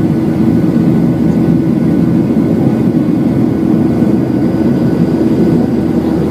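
Boeing 737-8's CFM LEAP-1B jet engines running, heard inside the passenger cabin as a loud, steady drone with a low hum.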